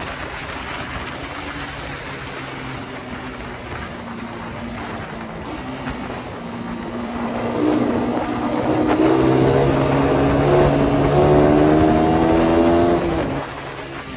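Suzuki Satria FU 150's single-cylinder four-stroke engine through a CBU Thailand exhaust, running low at first, then revving up from about eight seconds in with its pitch climbing, and easing off near the end.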